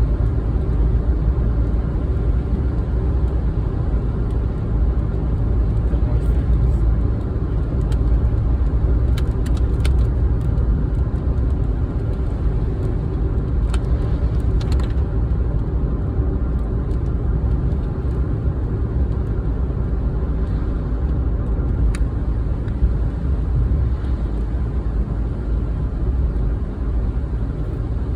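Steady low road and engine noise of a car driving, with a few scattered sharp ticks.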